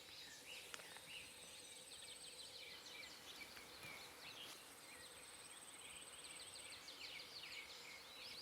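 Faint outdoor ambience of many small birds chirping, with a high, buzzing insect trill that sounds twice for a couple of seconds each.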